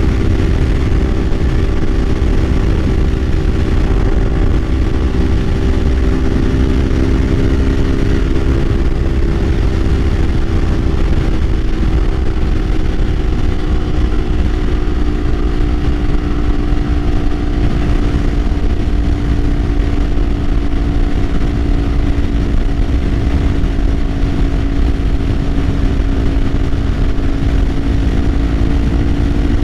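Kawasaki Ninja 500 parallel-twin engine running at a steady cruise, its pitch easing slightly lower over the first half and then holding, over a heavy low rush of wind and road noise.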